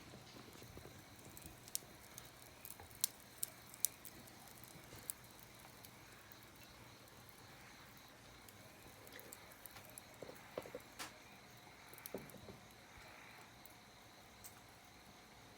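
Small wood fire in a compact fire pit, crackling faintly with sparse, irregular sharp pops.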